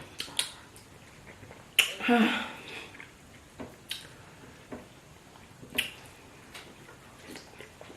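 Wet eating sounds from fufu and soup: a few sharp smacks and clicks scattered through the seconds, with a short voiced sound about two seconds in.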